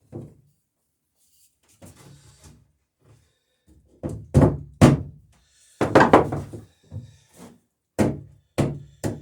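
Hammer blows riveting nails and burrs through the wooden planking of a dory's sheer strake, with a bucking iron held behind. The strikes come in an uneven series, with a quick cluster in the middle and three blows about half a second apart near the end.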